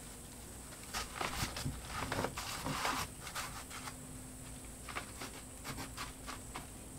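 Wall insulation being stuffed by hand into a stud bay: soft rustling and scattered light scrapes and taps, busiest in the first few seconds and sparser after.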